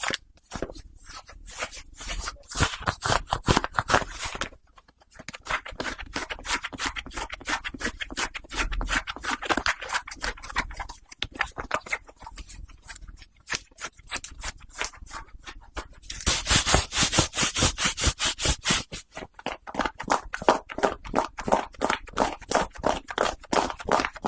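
Cotton socks being scratched and rubbed close to the microphone in quick repeated strokes, with a short pause early on and a louder, faster run of strokes about two-thirds of the way through.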